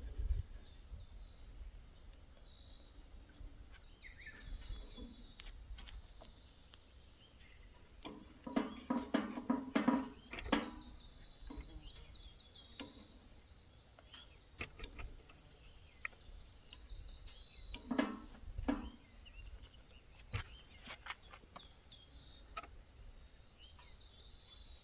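Small birds chirping now and then, over scattered sharp clicks and crackles. Two louder short clusters of sound come about a third of the way in and again about three-quarters through.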